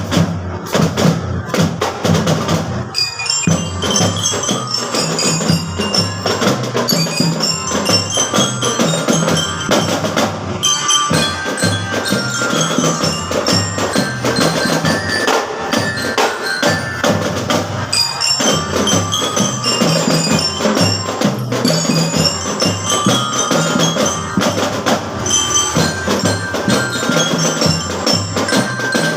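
School drum band playing: marching drums keep a steady beat, and a bell-lyre (glockenspiel) melody comes in about three seconds in and repeats in phrases over the drums.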